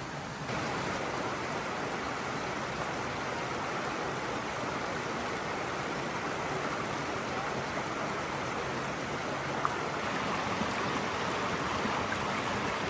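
Steady rush of flowing water, louder from about half a second in, with a single faint click near the end.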